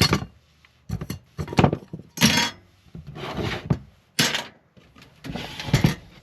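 A run of knocks, clicks and short scrapes as computer case hardware and parts are handled.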